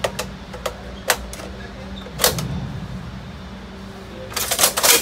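Metallic clicks and knocks of a Barrett M82 .50 rifle being handled as its magazine is seated and the rifle is shouldered. A few single clicks come in the first couple of seconds, and a quick run of clacks comes near the end.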